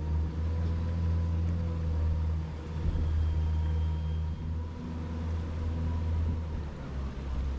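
Tour boat's engine running steadily while under way, a constant low hum with a faint steady whine above it.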